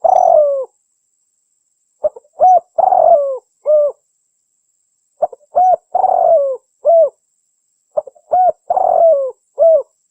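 Spotted dove cooing: the same multi-note phrase, a few short coos around a longer falling coo, repeats three times, about every three seconds. It is a dove-trapping lure call.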